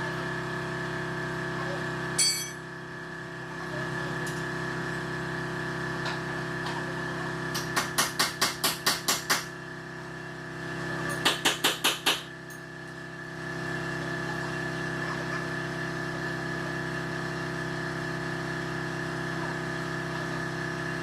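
Steady mechanical hum of workshop machinery with metal tools striking. One sharp metallic hit comes about two seconds in. Two runs of rapid hammer-like strikes follow, about six a second, first nine strikes, then five.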